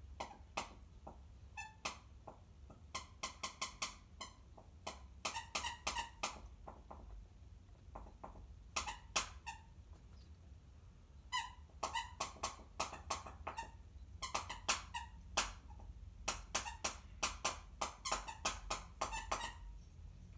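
Birds calling in quick runs of short, squeaky chirps, four to six notes at a time with short pauses between runs.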